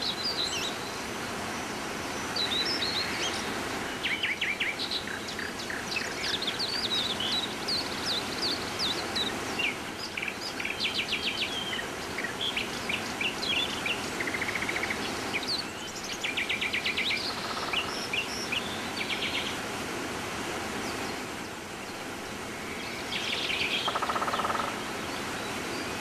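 Birds chirping, with many short calls and a few rapid trills, over a steady rushing background noise.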